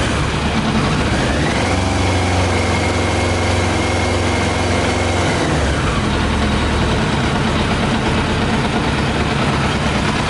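Yamaha YZF 600R's inline-four engine running on 40% whisky in place of petrol. It is brought up to higher revs about a second and a half in, held there for a few seconds, then drops back to a lower run. It runs rough and misfires on the watery alcohol fuel.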